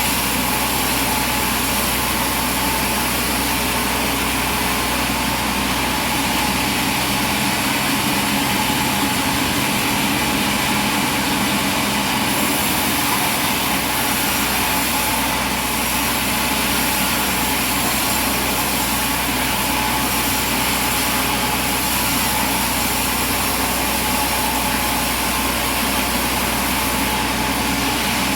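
Machinery running steadily: an even mechanical drone with several held tones, at a constant speed.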